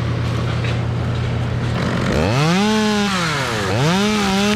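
Two-stroke chainsaw idling, then revved up hard about two seconds in. The engine speed drops briefly and it is revved up again and held near the end.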